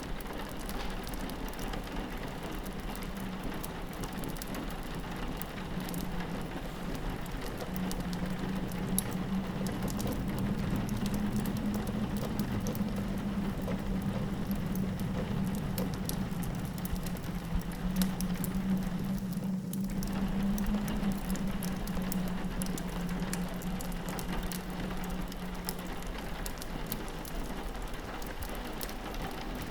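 Steady rain pattering on a window, with a fireplace crackling. A low wind howl swells through the middle and eases off near the end.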